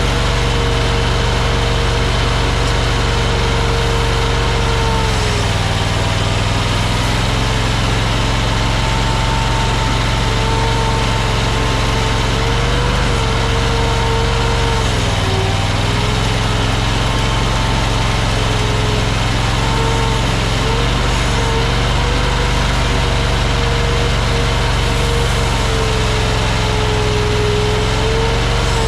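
Mini skid steer engine running steadily, with a whining tone that dips in pitch several times as the machine works.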